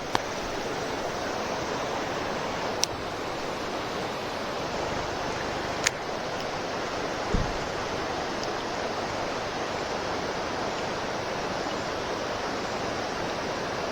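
Steady rushing of a mountain stream, with three sharp clicks and a short low thump.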